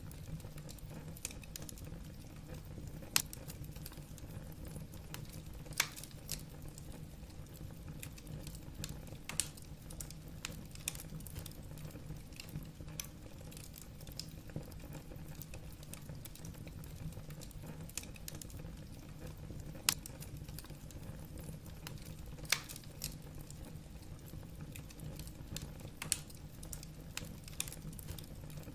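Wood fire crackling in a fireplace: irregular sharp pops and snaps from the burning logs, a handful of them louder, over a low steady rumble.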